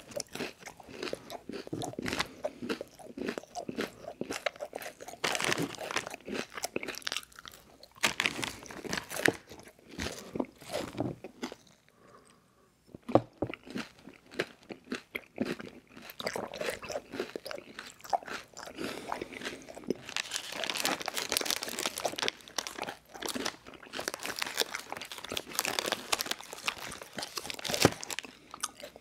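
Close-miked chewing and crunching of a crispy rice cereal treat: dense, irregular crackling bites and chews, with a short pause about halfway through.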